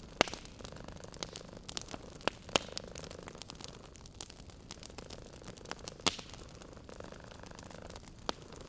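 Wood fire crackling, with sharp pops every second or two, several loud ones. Underneath, a cat purrs, swelling and fading with each slow breath.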